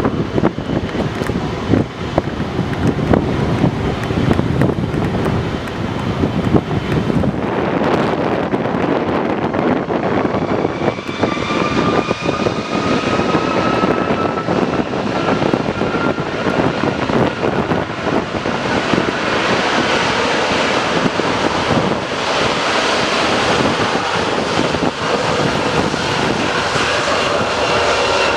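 Eurofighter Typhoon jet engines running loud and steady over a deep rumble. From about ten seconds in, a thin whine climbs slowly in pitch.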